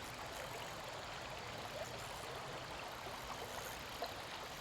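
Creek water running steadily, with one faint tap about four seconds in.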